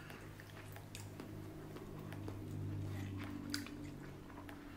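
Close-up chewing and wet mouth sounds of someone eating sushi, with scattered small clicks, over a steady low hum.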